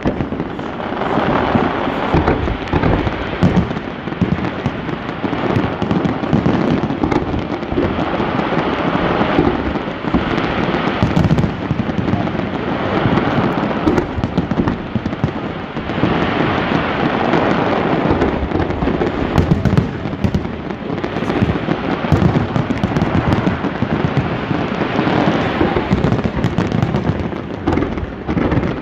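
Fireworks display with shells bursting in a rapid, continuous barrage, the bangs overlapping into a steady rumble with sharper cracks on top.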